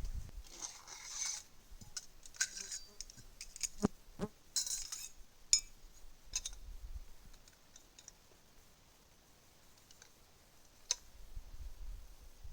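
A scatter of small, sharp clicks, taps and scrapes, with a cluster of them around the middle and one lone click near the end. Low wind rumble on the microphone fades out at the start and comes back near the end.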